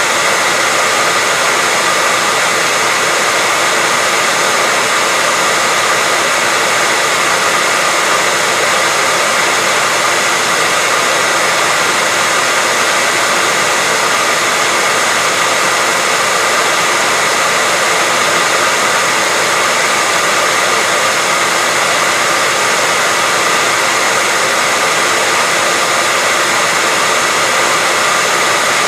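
Hair dryer blowing, a steady, unchanging loud hiss of rushing air with a faint whine of the motor and fan running through it.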